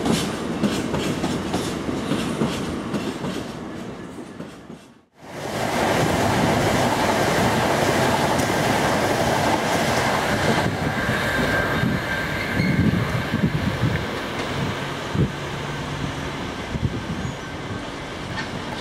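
Container freight wagons clattering over rail joints in a quick, regular rhythm, fading away; then, after a cut, a Virgin Class 390 Pendolino electric train running by with a steady loud rail noise.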